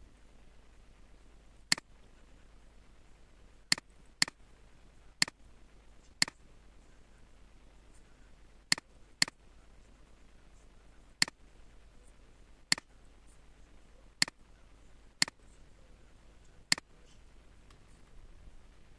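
Computer mouse clicking, about a dozen single sharp clicks at irregular intervals, some in pairs half a second apart, over a low steady background hum.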